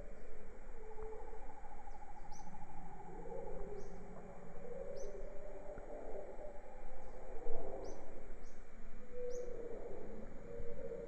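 Jungle ambience of birds calling: overlapping low-pitched calls run throughout, with short high chirps repeating about once a second over a steady high-pitched hum.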